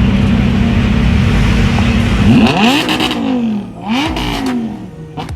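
A car engine runs loud and steady, then is revved up and back down twice in quick sweeps.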